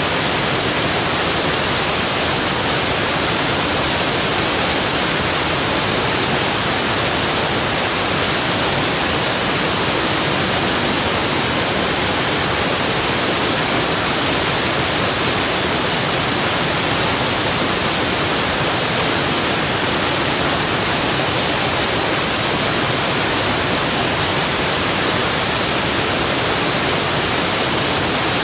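Waterfall rushing: a loud, unbroken, even hiss of falling water with no changes.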